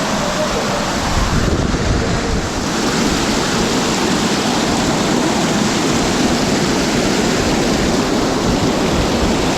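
Loud, steady rush of a fast-flowing mountain stream, with wind buffeting the microphone.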